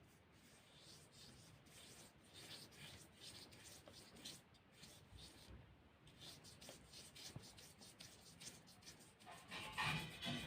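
Faint, irregular scratching and rubbing of a brush working over watercolour paper, stroke after stroke. A louder, brief knock and clatter comes near the end.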